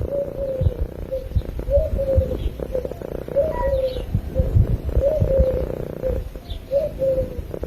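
Domestic cat purring close to the microphone, with a short low call that dips slightly in pitch repeated about eight times over the purr.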